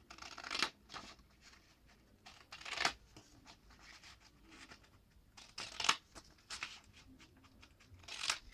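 Scissors cutting through a sheet of A4 paper, trimming off the excess strip: a handful of short, separate snips spread over several seconds.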